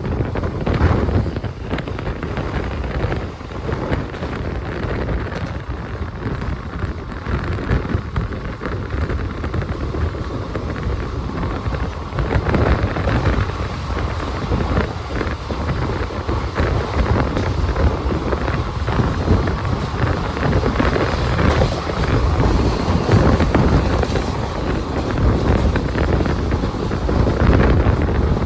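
Wind buffeting the microphone over the steady running rumble of a moving train.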